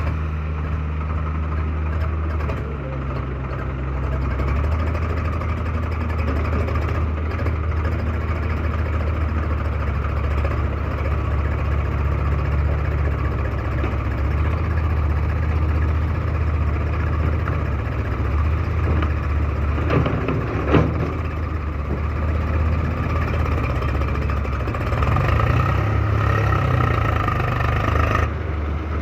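Heavy diesel engine running steadily, its pitch stepping up and down a few times, with a single sharp knock about two-thirds of the way through.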